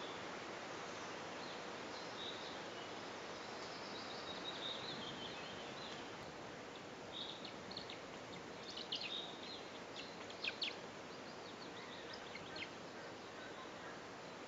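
Steady outdoor hiss with short, high bird chirps coming and going, thickest in a cluster of sharp chirps about nine to eleven seconds in.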